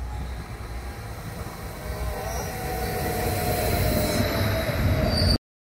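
Electric multiple-unit passenger train pulling into the platform and slowing. Its running noise grows louder, a whine falls in pitch as it slows, and a high brake squeal comes near the end. The sound cuts off abruptly just before the end.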